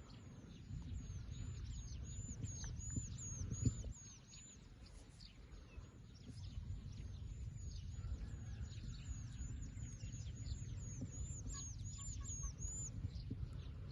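A small bird calling a rapid run of short, high chirps, about two or three a second, over a low rumbling background noise.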